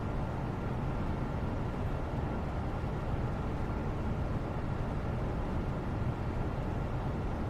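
Steady background white noise, weighted to the low end, with a faint steady high hum.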